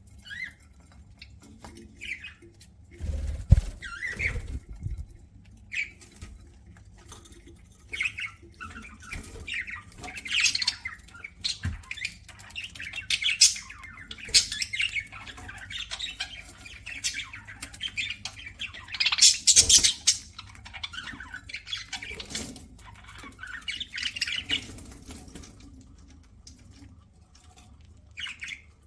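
Pet budgerigars chirping and squawking in short, scattered calls, with sharp clicks and a few low thumps mixed in. The loudest burst comes about two-thirds of the way through.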